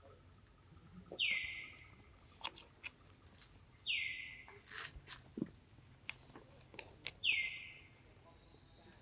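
A bird calling three times, about three seconds apart: each time a short, loud call that falls in pitch. Small clicks and rustles come in between.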